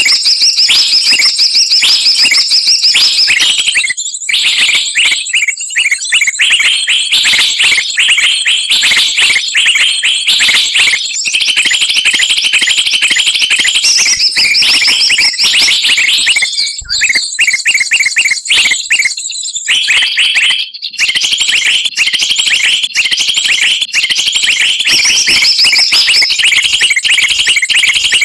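Bird-trapping lure recording: a loud, dense mix of many small songbirds' rapid chirps and chattering calls, overlapping almost without pause, with brief dips near the middle. It is a noisy 'ribut' lure call played to draw birds down into traps.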